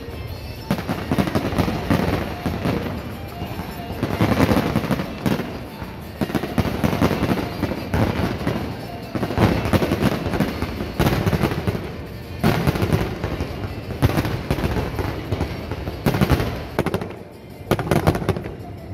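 Fireworks display: aerial shells bursting in a dense, continuous barrage, many sharp bangs and crackles overlapping with a rumble between them, easing briefly near the end.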